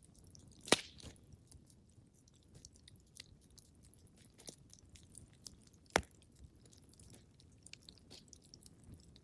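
Wood fire crackling in a fireplace: a low bed of small snaps with two sharp, loud pops, one just under a second in and one about six seconds in.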